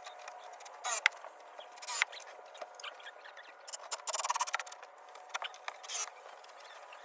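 Work sounds of shed wall framing: a few sharp knocks of wood and tools being handled, with a short run of rapid ticking clicks about four seconds in.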